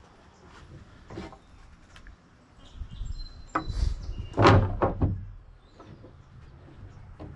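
A few scattered knocks and clicks. About three seconds in comes a louder cluster of thumps and clatter over a brief low rumble, loudest a little after four seconds.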